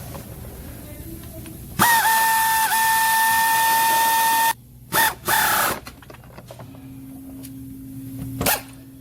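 A power tool, likely air-driven, running at full speed with a hiss and a steady whine for about three seconds. Its pitch dips briefly twice under load. Two short bursts follow, then one brief burst near the end.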